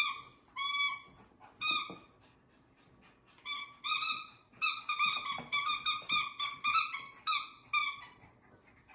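Squeaky dog toy squeaking repeatedly as a Yorkshire terrier puppy chews it: a few high squeaks, a short pause, then a quick run of about two or three squeaks a second.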